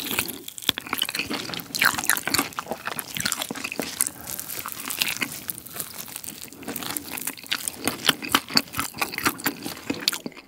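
Close-miked biting and chewing of Goobne Gochu Basasak chili-pepper chicken: irregular crunches and crackles of the coating, with wet mouth sounds of chewing.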